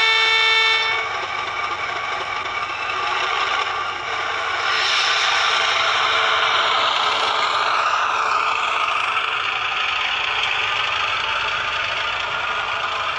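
Hornby Class 31 model's DCC sound decoder playing through its small onboard speaker. A short single-tone air horn blast ends about a second in, then the recorded diesel engine sound builds up about four seconds later as the locomotive pulls away.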